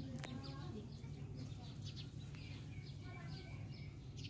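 Small birds chirping in short repeated calls, over a steady low hum.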